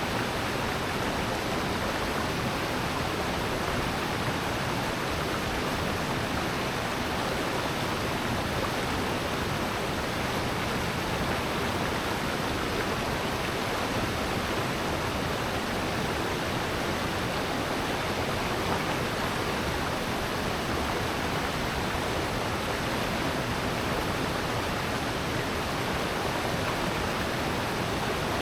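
Rushing water of a valley stream, a steady even noise that does not change.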